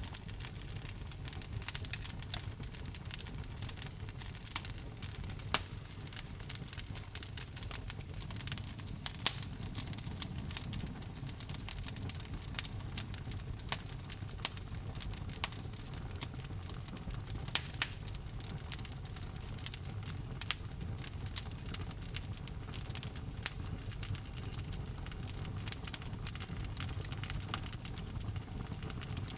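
Wood fire of burning logs in a fireplace crackling, with frequent irregular sharp pops over a low, steady rumble of the flames.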